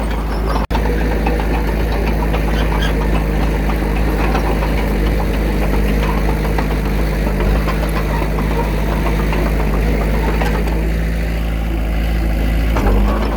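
Diesel engine of heavy earthmoving machinery running steadily at a low, even speed, with a rough, knocking note. The sound drops out for an instant less than a second in.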